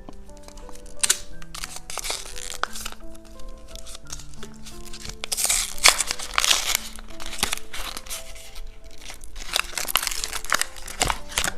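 Plastic snack wrapping crinkling and tearing in bursts as it is opened, loudest about halfway through and again near the end, over background music with a simple melody of held notes.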